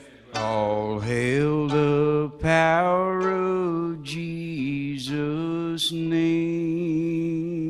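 A man singing the closing phrase of a hymn solo, with vibrato, ending on a long held final note.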